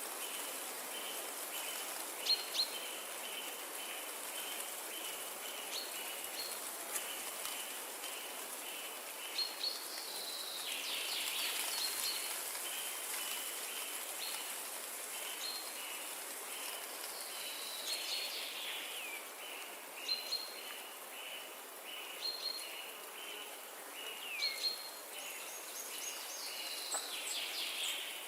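Windy forest ambience: a steady rush of wind through trees, with a repeating chirp about twice a second and scattered bird calls, some sliding down in pitch.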